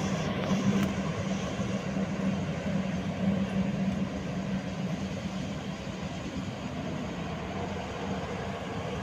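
A train at a station, making a steady rumble with a low hum that slowly gets quieter.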